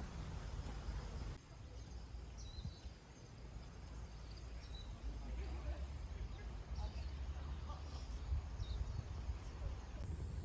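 Outdoor ambience: a steady low rumble with a handful of short, high bird chirps scattered through it from a couple of seconds in.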